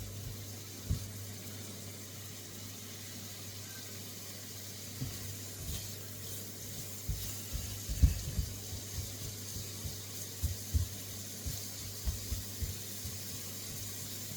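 Chopped onions and mushrooms frying gently in olive oil in a wok, a soft steady sizzle as they start to sweat, with low knocks of a utensil stirring against the pan from about five seconds in.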